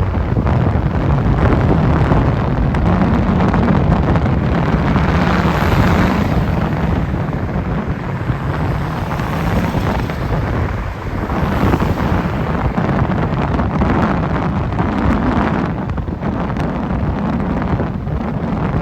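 Loud wind buffeting the microphone in gusts, over a steady low rumble.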